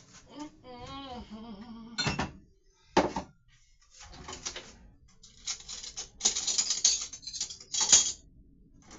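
A utensil knocking and scraping in a container of cottage cheese as it is scooped out and stirred: two sharp knocks about two and three seconds in, then a few seconds of scraping and clatter, loudest near the end.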